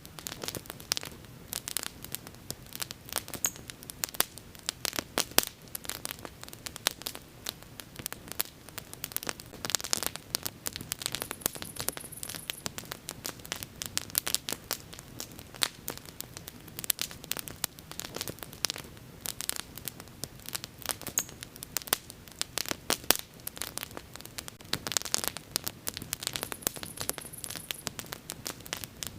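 Wood bonfire burning with dense, irregular crackling and sharp pops over a steady faint hiss.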